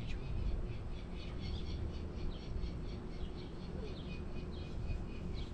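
Small birds chirping, a quick run of short high-pitched calls, over a low steady rumble.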